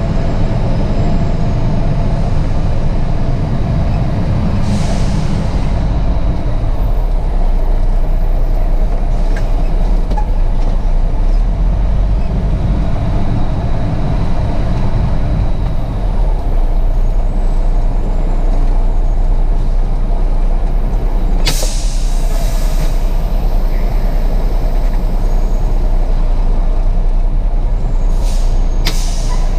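Diesel truck engine running steadily, with sharp air-brake hisses: a faint one early, a strong one about two-thirds of the way through, and two short ones near the end.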